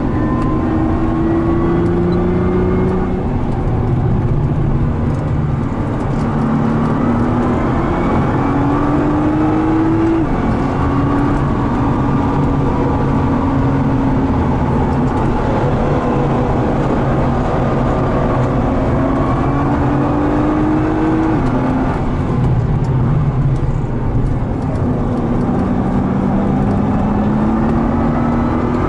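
2013 Nissan GT-R R35's twin-turbo V6 heard from inside the cabin at full throttle. The revs climb steadily and drop sharply at each upshift, several times, and fall away for a stretch in the middle.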